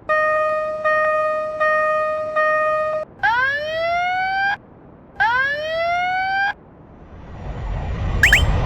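Siren sounds: four short blasts of one steady tone, then two rising whoops. Near the end a rushing noise swells up.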